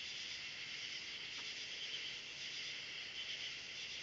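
A steady chorus of night insects, crickets chirping, high-pitched and unchanging.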